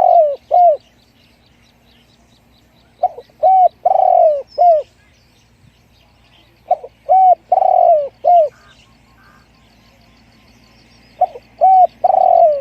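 Spotted dove cooing: phrases of four or five arched coos, each phrase with one longer coo near its end, repeated about every four seconds. Faint high chirps of small birds sound between the phrases.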